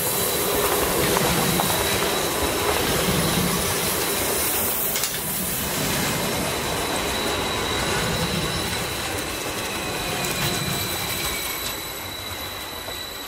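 Stadler FLIRT electric multiple unit running past at low speed, a dense rolling rumble from the wheels on the rails with a steady high-pitched squeal. From about eight seconds in, a faint whine falls in pitch as the train slows, and the sound eases off a little near the end.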